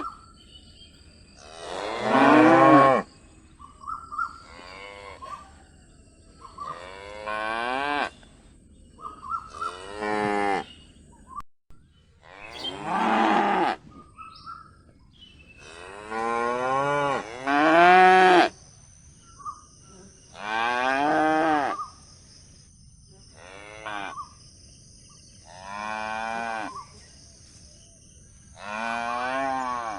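Calf mooing over and over, about a dozen short bawling calls, each around a second long, some rising and falling in pitch.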